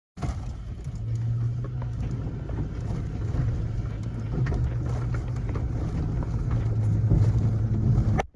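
A vehicle engine running steadily with a low hum, under rushing wind noise and scattered sharp crackles; it cuts off abruptly near the end.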